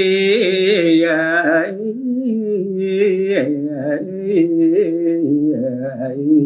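A single male voice singing a Balinese geguritan verse in pupuh Sinom, drawn out in long held notes with vibrato and ornamental turns in pitch.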